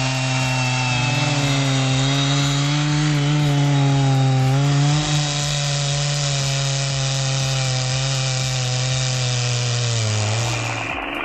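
Stihl MS 880 two-stroke chainsaw running at full throttle under load, cutting steadily through a large log. The engine note holds steady, sags a little near the end, then cuts off abruptly.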